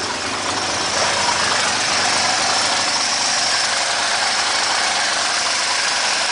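1967 Mercedes carbureted petrol engine idling steadily just after a cold start, running on all cylinders; it is a worn engine with over 300,000 miles on it. It gets a little louder about a second in, then holds steady.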